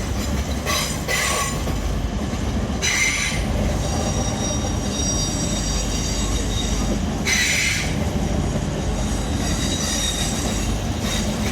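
Two coupled East Midlands Railway Class 360 electric multiple units arriving, wheels squealing with thin high tones over a steady low rumble. Short harsh bursts of noise come about one, three, seven and eleven seconds in.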